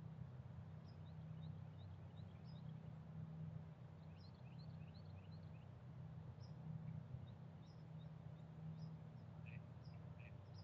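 Very faint scattered short, high bird chirps over a low steady rumble; otherwise near silence.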